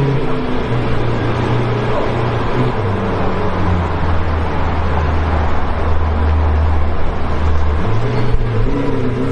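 A car engine running steadily over road noise. Its low hum drops in pitch about three seconds in and rises again near the end.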